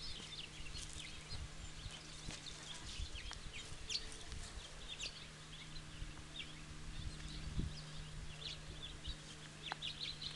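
Small birds chirping in many short, quick calls throughout, over irregular low rumbles and a faint steady low hum.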